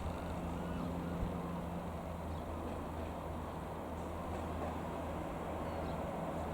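Single piston engine of a Cessna 172M Skyhawk light aircraft droning steadily.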